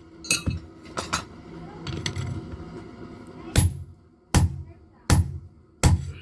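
Hammer blows on hot metal at an anvil, forging a knife blade: a run of sharp strikes, some with a short metallic ring, coming about every three-quarters of a second in the second half.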